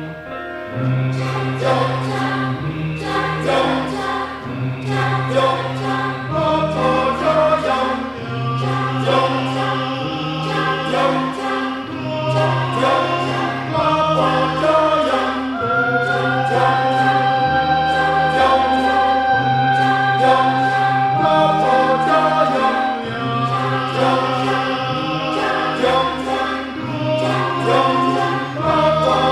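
Choir singing in harmony over a low bass line that repeats every couple of seconds, with sharp rhythmic accents. A long high note is held through the middle.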